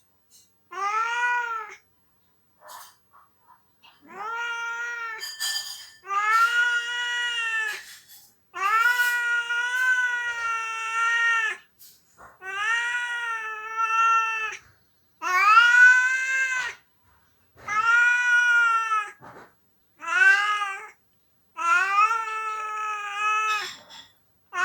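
Domestic cat crying with a string of about nine long, drawn-out meows, each one to three seconds long, bending up and down in pitch with short pauses between them. The owners think the crying may be from missing an absent family member.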